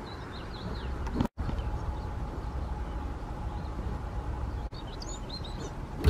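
Short high bird chirps, a few in the first second and a higher cluster about five seconds in, over a steady low outdoor background noise; the sound drops out for an instant about a second in.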